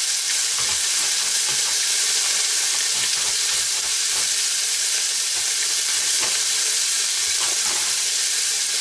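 Sliced cabbage and salt pork frying in a stainless steel skillet, a steady sizzle, with a few faint knocks scattered through it.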